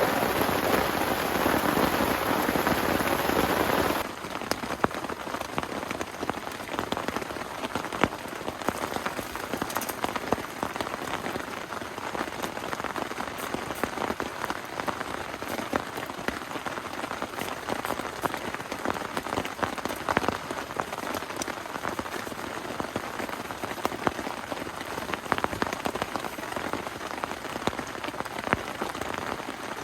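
Steady rain: denser and louder for about the first four seconds, then, after an abrupt change, quieter rain with many distinct drops ticking on a surface.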